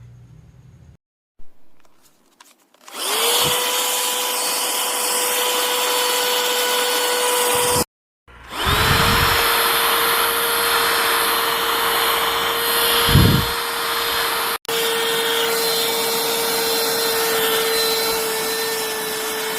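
Cordless handheld vacuum cleaner running: its motor spins up about three seconds in to a steady high whine over a loud rush of air, with two brief cut-offs and a couple of low thuds.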